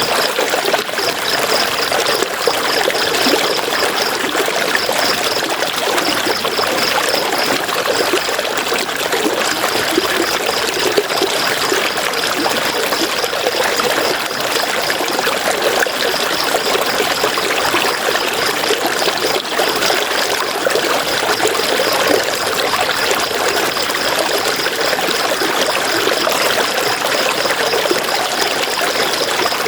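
River water running and splashing over rocks in a steady rush. A high, rapidly pulsing chirp runs over it and breaks off now and then.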